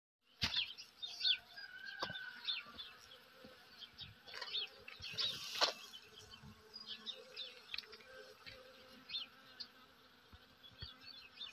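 A flying insect, such as a bee, buzzing with a faint hum that wavers in pitch, while small birds chirp repeatedly in the background.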